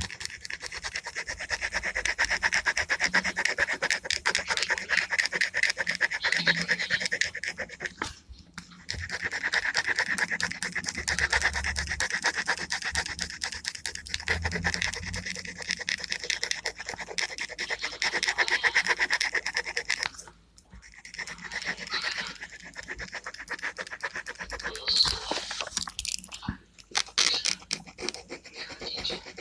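Gel pen scratching over paper in fast back-and-forth coloring strokes, with short pauses about a third of the way in and again about two-thirds through.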